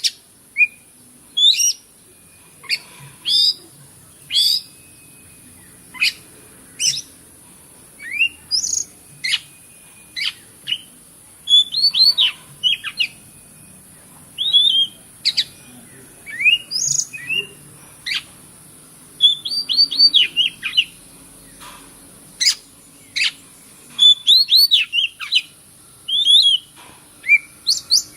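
Oriental magpie-robin (kacer) singing: a run of short, sharp whistled notes and quick rising and falling phrases with short gaps between them. A steady high-pitched hiss runs underneath.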